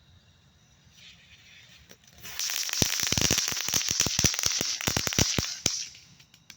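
A lit ground firework: a short fizzing fuse, then a rapid run of crackling pops with a bright hiss for about three and a half seconds, stopping abruptly.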